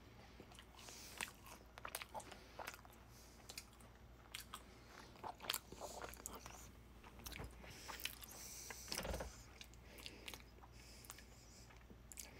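Faint crunching and chewing of a burnt, blackened grilled ham and cheese sandwich, in irregular crisp bites and chews.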